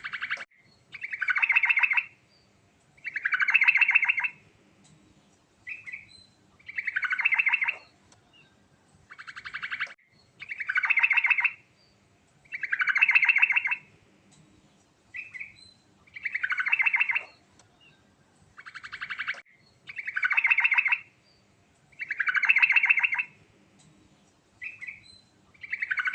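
Sooty-headed bulbul singing a continuous song, repeating a fast, trilled phrase about every two seconds, with short single notes between some phrases.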